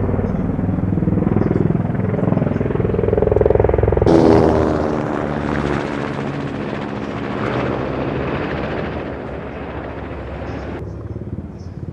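Helicopter engine and rotor noise, loud and steady. The sound changes abruptly about four seconds in, then carries a slowly falling pitch, and changes abruptly again near the end.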